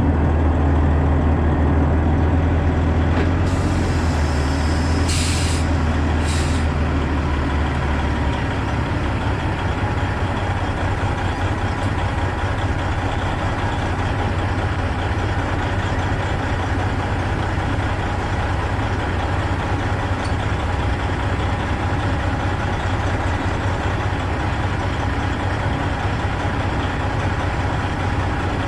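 Semi-truck diesel engine running, louder for the first several seconds and then settling to a steady idle, with three short air hisses from the air brakes about four to seven seconds in.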